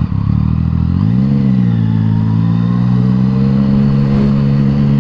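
Yamaha MT-09's three-cylinder engine through an Akrapovič exhaust, rising in pitch as it accelerates about a second in, then pulling steadily with a slowly climbing note.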